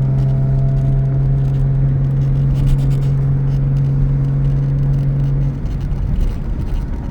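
1985 Jaguar XJS cruising at about 60 mph in fourth gear, heard from inside the cabin: a steady engine drone over road rumble. The drone breaks off about five and a half seconds in, leaving quieter rumble.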